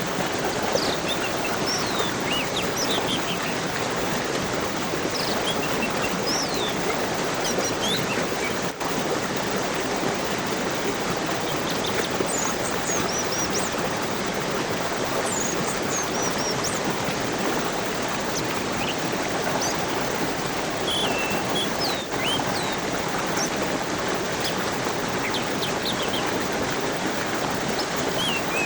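Steady rushing of a stream, with small birds giving short, high chirps on and off throughout.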